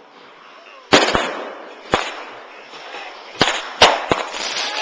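Fireworks going off close by: about six sharp bangs, with a crackling hiss between them.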